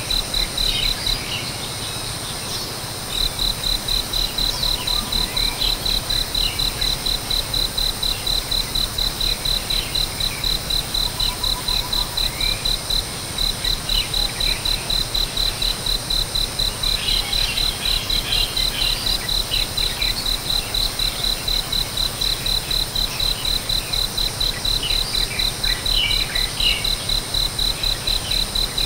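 An insect, likely a cricket, chirping in a fast, even pulse train on one high note. It breaks off briefly about a second in and again near the middle. Short, scattered bird chirps sound over it.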